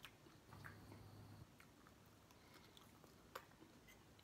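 Faint chewing of poutine fries, with a few soft mouth clicks.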